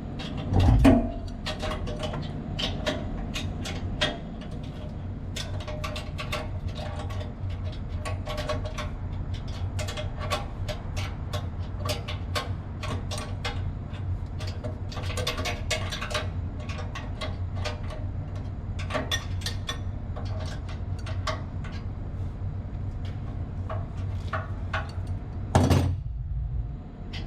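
Steady low machinery hum with frequent clicks and metallic knocks from parts and tools being handled, and two louder thumps, about a second in and near the end.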